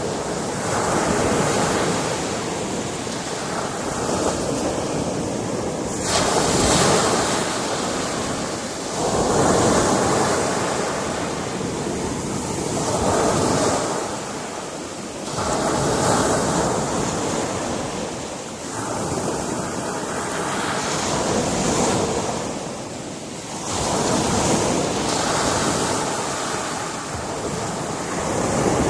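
Sea waves breaking on a rocky shore, swelling into a crash every few seconds and washing back between them.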